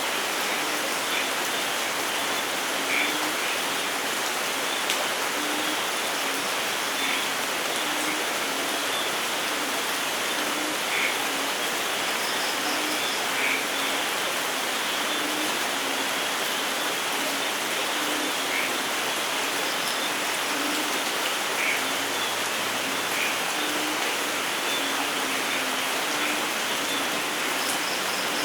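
Steady rain falling in a forest: an even, dense hiss of rain, with scattered louder individual drops.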